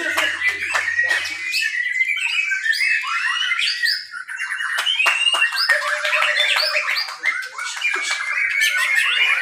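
Several songbirds singing at once in a dense, overlapping stream of rapid chirps, whistles and harsh notes, persistent and competitive.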